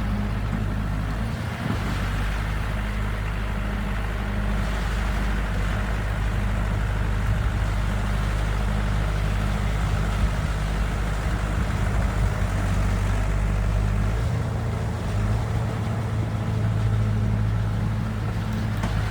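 Case 550E crawler dozer's diesel engine running steadily while grading, a continuous low drone with little change in pitch.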